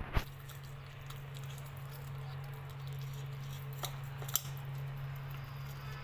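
Kitten eating: soft wet chewing and smacking with a few sharp clicks, one just after the start and two near the middle, over a steady low hum.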